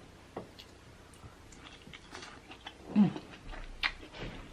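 Close-miked eating sounds: a person chewing and biting soft king crab meat, with wet mouth clicks and smacks that pick up about one and a half seconds in and are loudest near the middle.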